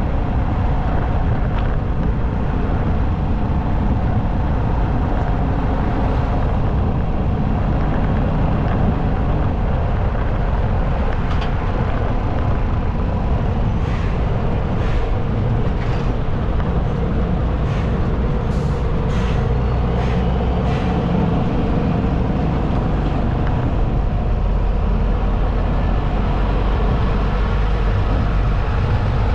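Motorcycle riding at road speed: steady wind buffeting on the microphone over engine and tyre noise, with several short, sharp hisses between about halfway and two-thirds of the way through.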